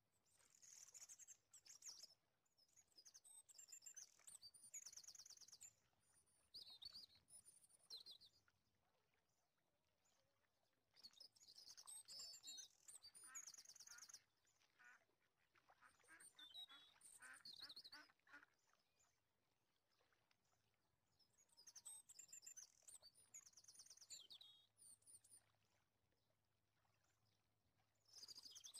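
Faint bird calls and trills in bursts of a few seconds, separated by quiet gaps.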